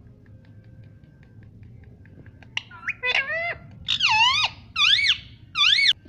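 Pet parrot calling: a few soft clicks, then four loud calls in quick succession in the second half, each swooping up and down in pitch.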